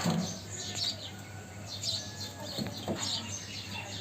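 Small birds chirping over and over in short high notes, with a couple of faint knocks about two and a half seconds in and a low steady hum underneath.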